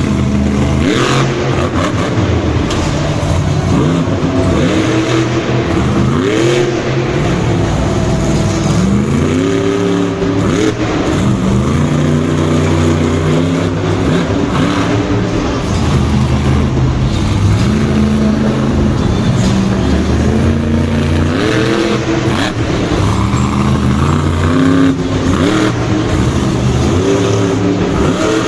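Monster truck engines revving hard again and again, each rev a quick rising pitch, with no let-up.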